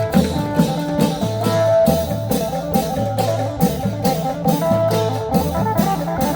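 Lively Thai festive band music: drums keeping a steady beat under a bass line and a plucked, guitar-like melody.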